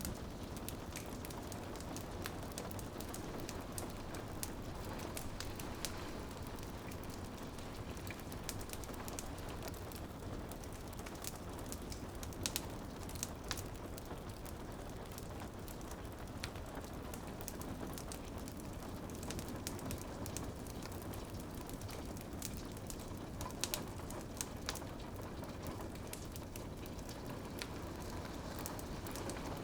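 Wood fire in a fireplace crackling, with scattered sharp snaps and pops, over steady rain dripping and pattering on a window.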